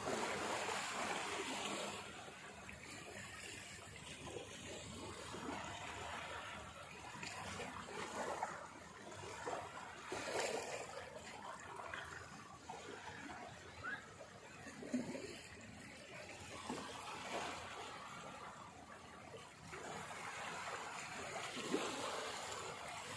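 Sea waves washing on the shore, an uneven rushing that swells and eases every few seconds.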